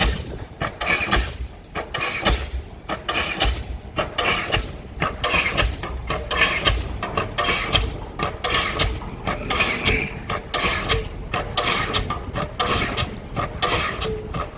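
Diesel pile hammer driving a pile, striking in a steady, regular rhythm of heavy blows, each with a metallic ring.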